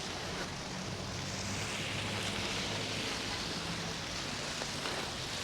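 Steady outdoor storm ambience: wind noise with a low engine hum of traffic underneath and no single event standing out.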